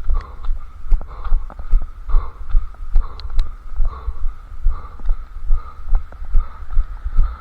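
A runner's footfalls thudding in a steady rhythm, about two and a half a second, picked up through a head-strapped camera, with a steady faint hum over them.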